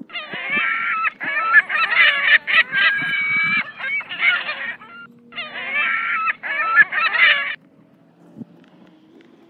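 Birds calling: a rapid, overlapping string of calls for about seven seconds, with a short break around five seconds in, stopping abruptly.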